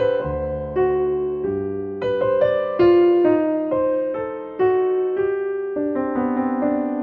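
Slow, gentle piano music: a soft melody of single notes over sustained bass notes, each note struck and fading away.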